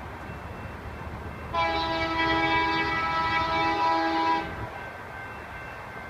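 Diesel locomotive air horn sounding one long blast of about three seconds, a chord of several tones, over the steady low rumble of the passing train.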